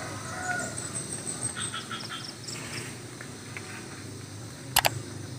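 Rural morning ambience: a rooster's crow trailing off at the start, a few short bird chirps about two seconds in, and a sharp double click near the end, the loudest thing, over a steady low rumble.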